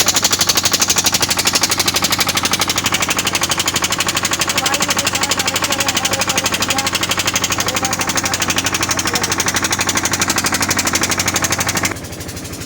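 Generator engine running close by, a loud rapid and even putting of exhaust pulses, just after being started. Its level drops sharply near the end.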